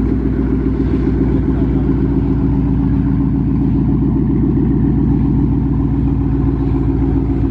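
Ford Mustang GT's 5.0 Coyote V8 idling, a steady, loud exhaust note with no revving.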